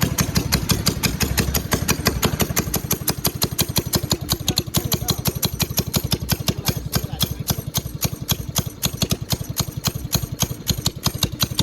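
A 212cc single-cylinder four-stroke mini bike engine running at a steady idle, an even, fast putter.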